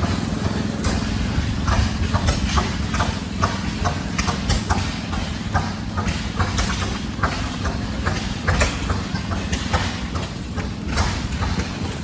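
An engine running steadily with a low hum, with many irregular sharp clicks and knocks over it.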